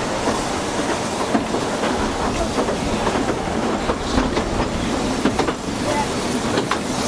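Narrow-gauge railway carriage running along the track, heard from the carriage itself: a steady rumble of the train in motion, with wheels clicking over rail joints now and then.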